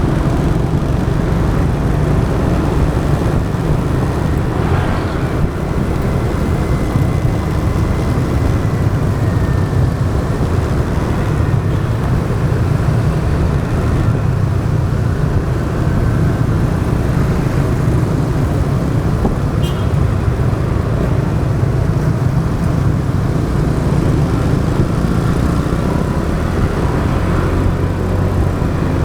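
Motorbike ride in traffic: steady engine and road noise with a heavy low rumble, and a faint high whine drifting past for a few seconds.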